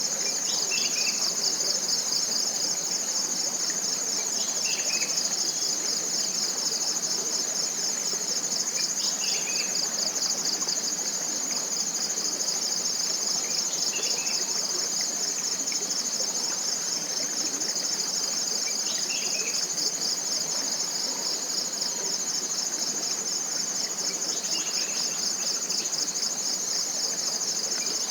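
Forest insect chorus: a steady, high-pitched, fast-pulsing trill. A short falling bird call repeats about every five seconds beneath it.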